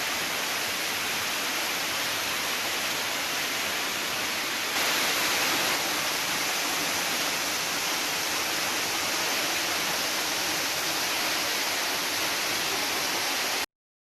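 Waterfall rushing: a steady, even hiss of falling water that cuts off suddenly near the end.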